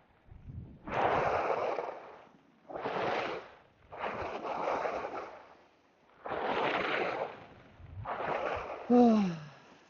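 Skis scraping across hard, icy snow turn after turn, a noisy swish about every one and a half seconds with quieter gaps between. Near the end a short tone slides downward, the loudest moment.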